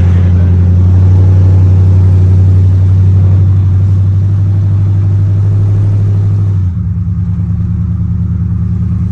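Swapped-in 6.0 V8 running at a steady, fairly fast idle on open headers with no exhaust fitted, loud. About two-thirds of the way through it drops a little in level and its note changes.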